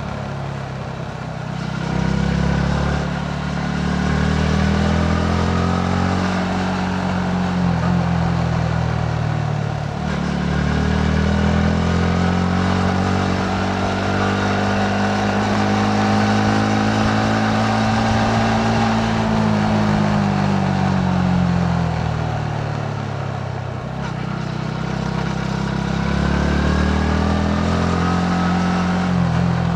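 Yamaha MT-15's 155 cc single-cylinder engine running under way, its pitch climbing as it pulls, holding steady for several seconds, then dropping. It eases off briefly twice, about ten seconds in and again about twenty-four seconds in, before rising again.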